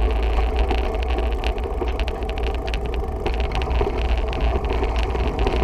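Wind rumbling and buffeting on the camera microphone while riding, a loud low rumble with a rushing hiss that starts and cuts off abruptly.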